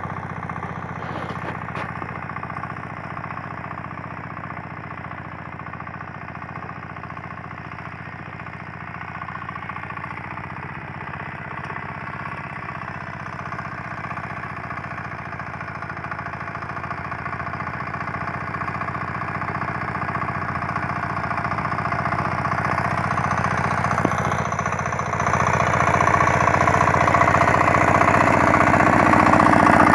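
9 hp KAMA single-cylinder diesel engine running steadily, growing gradually louder, with a further step up in level about 25 seconds in.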